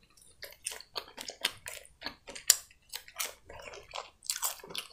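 Close-miked chewing of French fries: a run of short, irregular mouth clicks, several a second.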